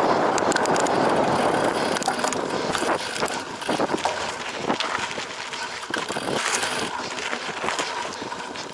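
Cyclocross bike ridden hard over rough ground: a steady rush of tyre noise, loudest in the first couple of seconds, broken by many sharp rattles and knocks from the bike.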